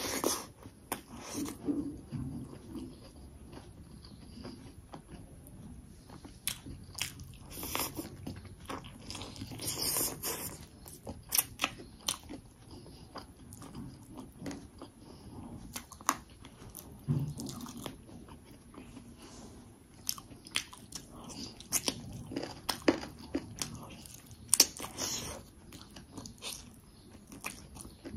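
A person chewing a mouthful of chicken and rice eaten by hand, with frequent sharp crunches and mouth clicks at irregular intervals.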